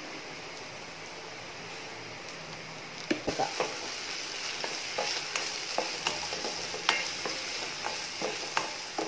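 Plantain cubes sizzling steadily in a nonstick kadai, with sugar just sprinkled over them. About three seconds in, a plastic spatula starts stirring them, giving a run of irregular scrapes and taps against the pan over the sizzle.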